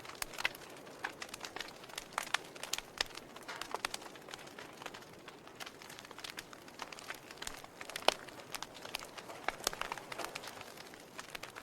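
Wood fire of burning logs crackling in a fireplace: irregular sharp pops and snaps over a soft hiss, with one louder pop about eight seconds in.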